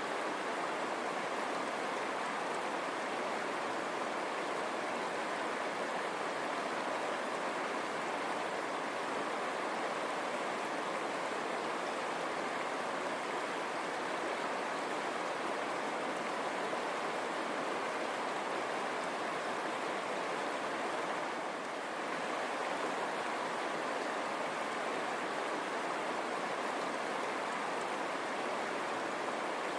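River water running over stones: a steady, even rushing.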